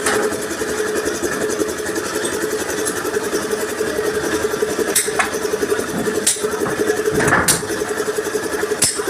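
Steady engine-like running hum under four sharp knocks in the second half, a little over a second apart, typical of hammer blows on a steel truck bumper being straightened.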